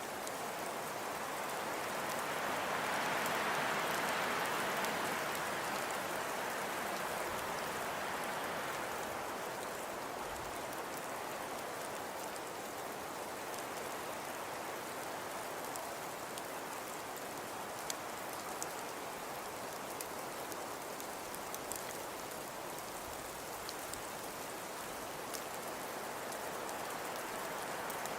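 Steady soft hiss and patter of a snowfall ambience, swelling a little a few seconds in, with a few faint ticks later on.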